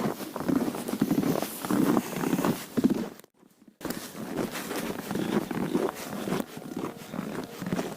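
Footsteps crunching on packed snow at a walking pace, about two steps a second, broken by a brief gap about three seconds in.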